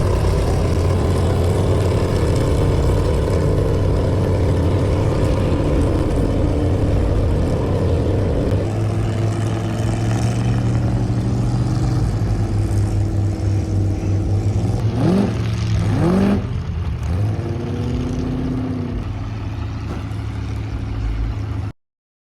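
Off-road truck engine running loud, with two quick revs about fifteen seconds in. The sound cuts off abruptly near the end.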